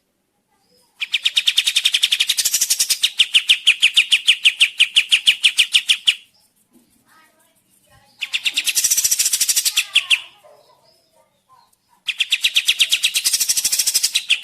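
A songbird singing three long, fast trills of rapidly repeated high notes, the first about five seconds long, the second shorter, the third starting near the end.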